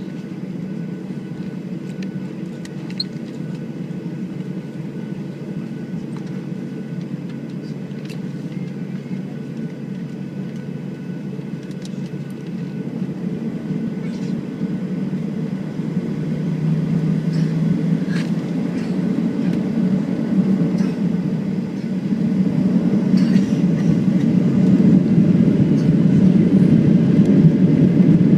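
Cabin noise of a Boeing 737-700 with its CFM56 turbofans: a steady low rumble with small rattles. It grows louder in two steps, about 16 and 22 seconds in, as thrust comes up for takeoff.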